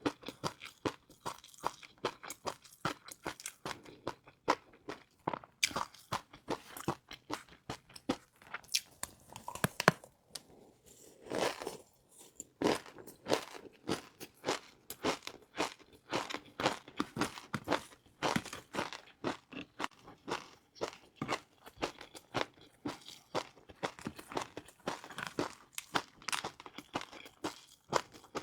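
Close-miked crunching and chewing of crispy fried noodles, a rapid run of sharp crackling crunches several per second, with a short softer spell about ten seconds in.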